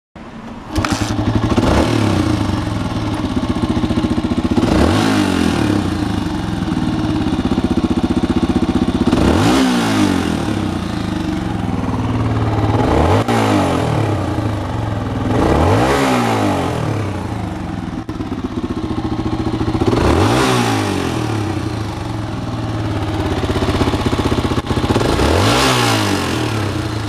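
Honda XLX250R motorcycle's air-cooled single-cylinder four-stroke engine running at idle and blipped about seven times, each rev rising and falling back to idle. A running check showing the engine runs.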